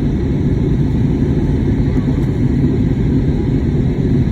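Steady low rumble of engine and airflow noise inside the cabin of an Airbus A320neo airliner.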